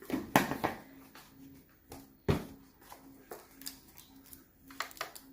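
Kitchen utensils and containers clinking and knocking as flour is measured out for a tangzhong, with two louder knocks: one about a third of a second in, the other just past two seconds.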